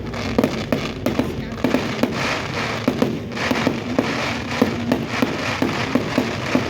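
Fireworks going off at a display: a rapid, irregular series of sharp bangs and cracks, several a second, over a steady rumble.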